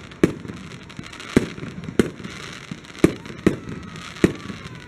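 Fireworks aerial bursts going off in quick succession: about six sharp bangs, roughly a second apart.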